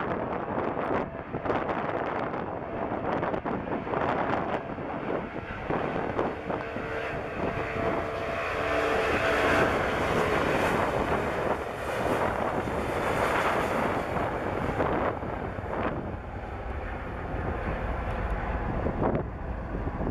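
Jet roar of an Airbus A340-300's four CFM56-5C engines at take-off power, swelling to its loudest between about eight and fourteen seconds in, with a few steady whining tones near the middle. Wind buffets the microphone throughout.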